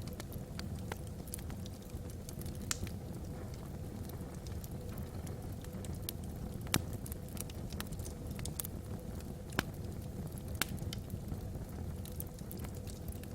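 Wood fire burning in a fireplace: a steady low rumble of the flames with irregular sharp crackles and pops from the logs, a few of them louder than the rest.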